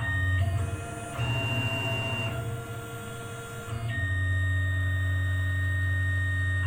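CNC mill axis drive motors jogging the table: a steady electric whine whose pitch shifts several times, about half a second, a second, two seconds and four seconds in, as the feed speed changes.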